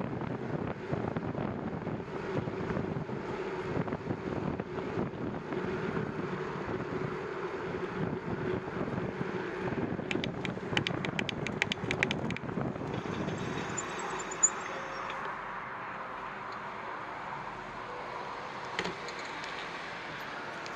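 Wind and rolling noise during a bicycle ride, with a quick run of sharp ticks about halfway through; the noise then drops to a quieter, steady hum of traffic.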